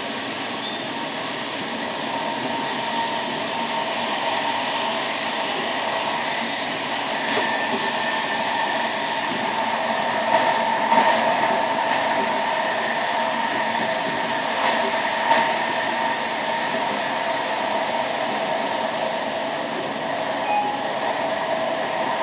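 VR Class Sr2 (Re 460) electric locomotive and train running at speed, heard at the coupling: a steady rolling noise with steady whining tones, and a few brief louder knocks around the middle.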